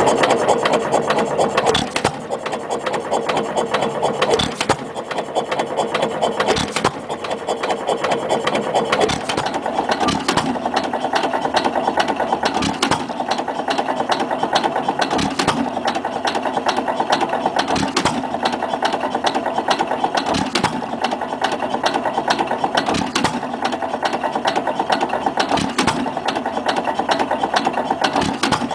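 1924 T. Eaton (Stover) 3 hp type KB hit-and-miss stationary engine running at about 280 rpm: a steady fast mechanical clatter with a heavier knock every two to three seconds as it fires, coasting between firings.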